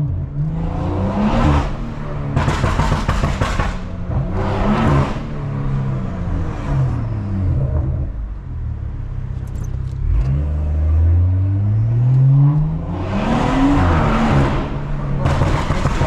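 Stage 2 tuned BMW 440i's turbocharged B58 inline-six pulling hard through the gears, heard from inside the cabin: the engine note climbs and drops back at each shift, with several loud noisy bursts of exhaust crackle from its anti-lag and overrun tune.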